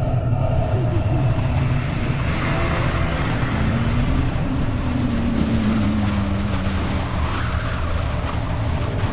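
Haunted-house ambience sound effects: a dense, steady low rumble under a hissing wash, with a slow, falling tone through the middle.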